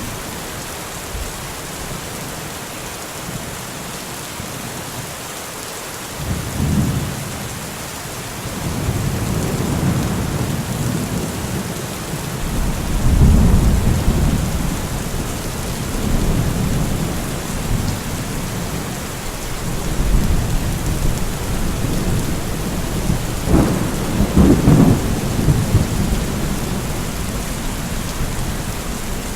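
Steady rain falling, with rolling thunder rumbling in from about six seconds in and swelling several times, loudest in the middle and again near the end.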